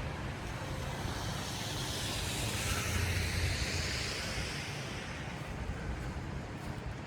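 A vehicle driving past on a snowy city street: tyre hiss and a low engine rumble swell, peak about three seconds in, then fade.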